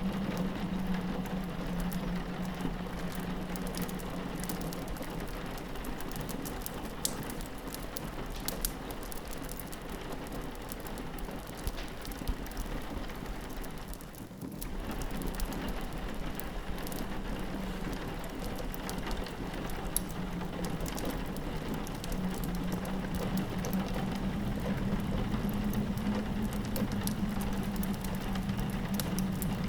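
Steady rain pattering on a window, mixed with the scattered snaps of a crackling wood fire and a low wind hum that swells and fades. The whole mix drops briefly about halfway through.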